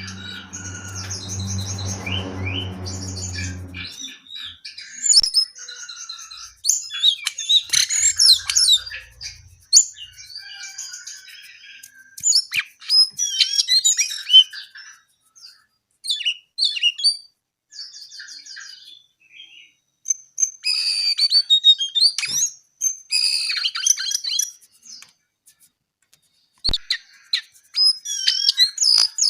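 A jongkangan coklat songbird singing in repeated bursts of high, rapid chirps and trills with short pauses between phrases. A low steady hum sounds under the song for the first four seconds, then stops.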